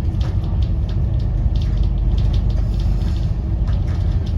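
Steady low rumble of a Scania N270UD OmniCity double-decker bus on the move, engine and road noise heard from inside the passenger cabin.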